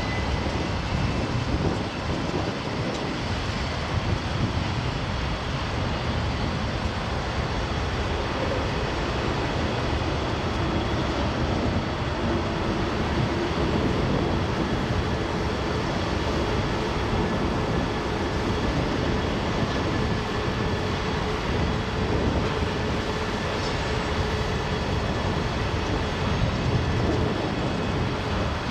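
Freight cars of a long mixed freight train rolling past on the track, a steady, unbroken rumble of wheels on rail.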